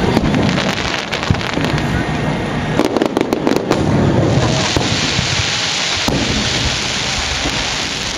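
Aerial firework shells bursting: a rapid string of sharp pops and crackles, then from about halfway a dense, steady crackling hiss as the crackling stars go off.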